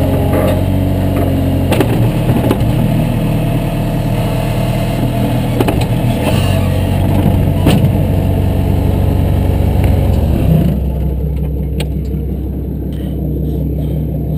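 A vehicle engine running steadily, with scattered clattering and knocks over it. About ten and a half seconds in the clatter and higher noise fall away and the engine runs on more quietly.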